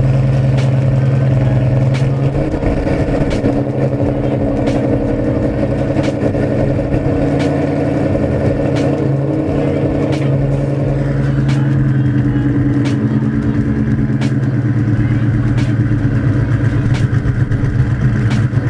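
Ford Mustang GT's 4.6 V8, PI-swapped with Comp 262 cams, long-tube headers and SLP LoudMouth exhaust, idling loudly and steadily just after a cold start. The engine is still cold, so the cams are not yet chopping, and the idle note shifts slightly a couple of times.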